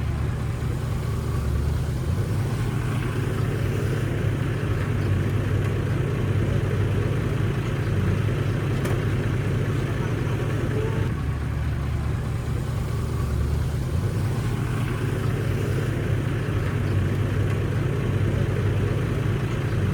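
Shantui bulldozer's diesel engine running steadily, a continuous low drone.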